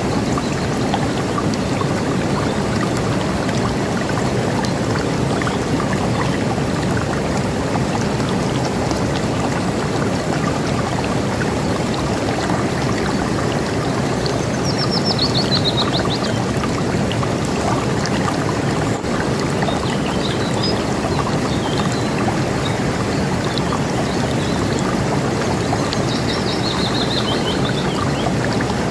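River water rushing steadily. A bird calls twice over it, each time a quick series of high chirps falling in pitch, about halfway through and again near the end, with a few faint chirps in between.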